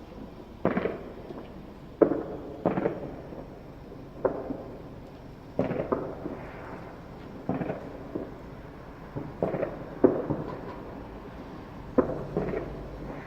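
Fireworks going off: about ten sharp bangs at irregular intervals, each trailing off in a rumbling echo.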